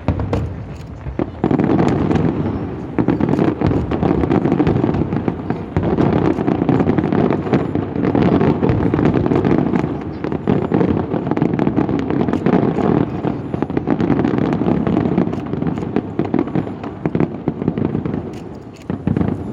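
Fireworks going off in a dense, continuous barrage of rapid bangs and crackling, building up about a second and a half in and easing off near the end.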